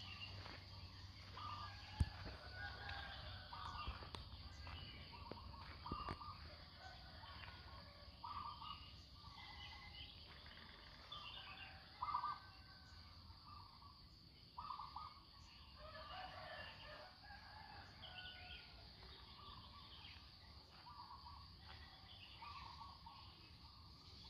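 Faint village dawn chorus: scattered short chirps of small birds, with roosters crowing, over a steady high insect drone.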